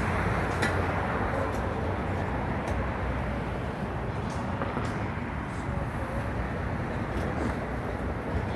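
Steady city street noise of passing traffic, with a low rumble and a few faint clicks.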